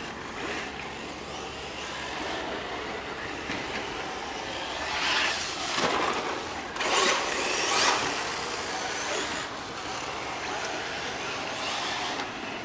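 Electric RC cars on 3S LiPo running on a dirt track, a steady noisy rush of motors and tyres on dirt that swells louder twice, about five and eight seconds in.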